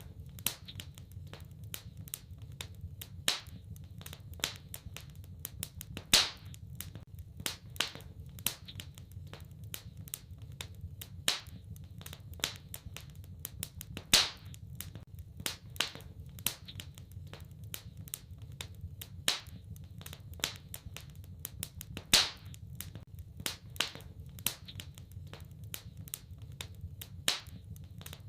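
Wood fire in a fireplace crackling, with irregular sharp snaps and a few louder pops about eight seconds apart, over a steady low rumble.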